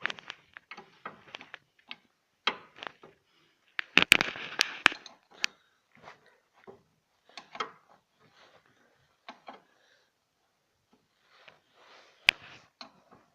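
Scattered clicks and knocks of hand tools and car parts being handled, with a cluster of sharp knocks and a scraping rattle about four seconds in and one sharp knock near the end.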